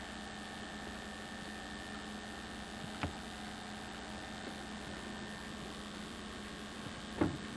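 Steady electrical hum with tape hiss from an old VHS camcorder recording, with a single faint click about three seconds in and another short sound near the end.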